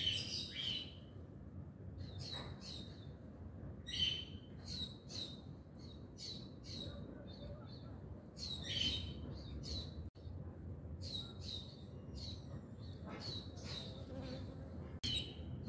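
Small birds chirping: many short, high chirps in quick runs, the loudest near the start and about nine seconds in, over a faint low background rumble.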